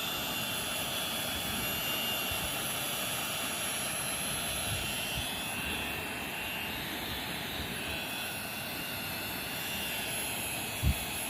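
Hand-held hair dryer blowing steadily, a constant rush of air with a thin high whine. A brief low thump near the end.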